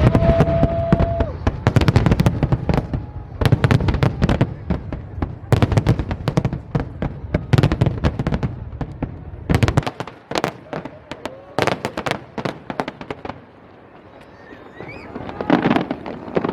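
Fireworks display: rapid crackling and banging of exploding shells, with heavy booms for about the first ten seconds. It then thins to scattered cracks and a brief lull before another burst near the end.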